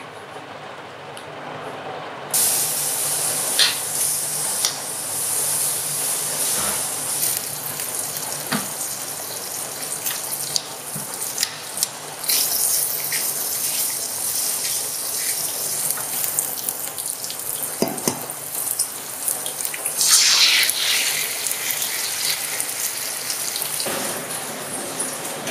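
Bacon, asparagus and carrot sizzling in a stainless steel frying pan: a steady frying hiss that starts suddenly about two seconds in, with scattered pops and clicks through it.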